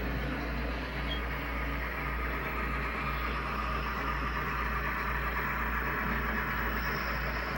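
Broadway Limited Paragon 4 sound decoder in an N scale steam locomotive playing running steam-engine sounds through its small speaker, steady and pulsing, over a low hum.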